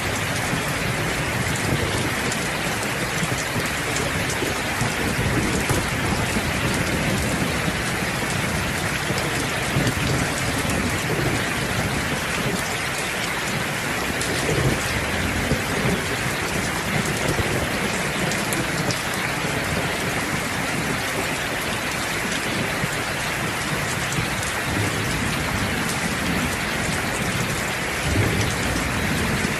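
Steady heavy rain, a dense hiss of falling drops, under a low rumbling of thunder that rolls on and swells a little near the middle and near the end.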